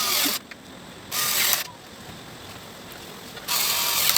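A ratchet clicking rapidly in short bursts of about half a second each, four times.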